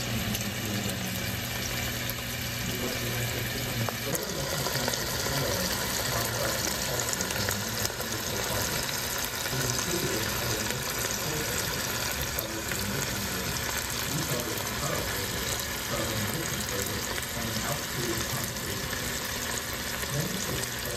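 Sliced chicken apple sausage sizzling in oil in a frying pan: a steady crackling hiss. For the first four seconds or so, a pot of red liquid bubbling on the cooktop with a low hum, which stops when the sizzling takes over.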